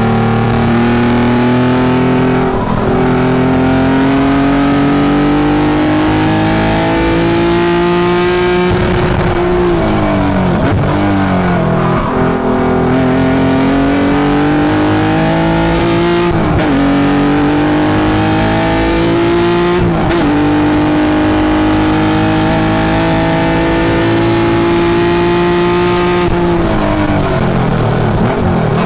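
Honda S2000's swapped J32A2 3.2-litre V6, heard from inside the cabin under full throttle on track, pitch climbing steadily through each gear with quick dips at the upshifts. About nine seconds in and again near the end the revs fall away with short throttle blips, as the car brakes and downshifts for corners.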